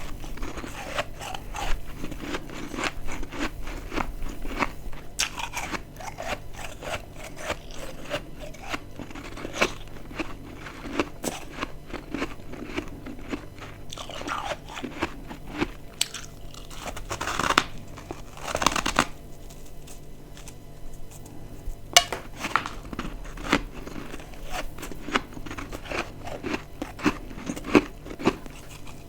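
A person biting and chewing dry, crispy chunks of freezer frost, a steady run of crisp crunches with a few louder bites in the second half.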